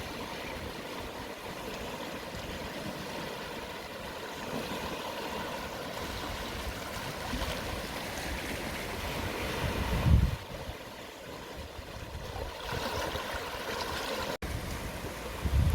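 Gentle sea waves washing over the shore at low tide, a steady hiss of surf. A low rumble swells up about ten seconds in and again at the very end, and the sound cuts out for an instant shortly before the end.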